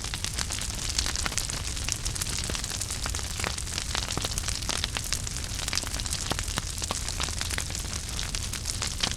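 Wood fire burning in a fireplace, with frequent sharp crackles and pops over a steady hiss and low rumble.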